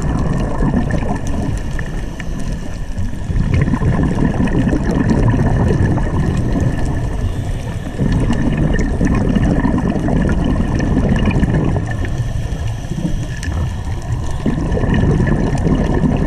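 Underwater audio during a scuba dive: bubbles gurgling in swells about every five seconds, typical of a diver's regulator exhaust, over a steady low rumble.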